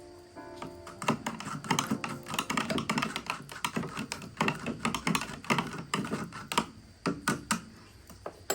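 Fast, irregular tapping and clicking of kitchen utensils during food preparation. It starts about a second in and stops shortly before the end.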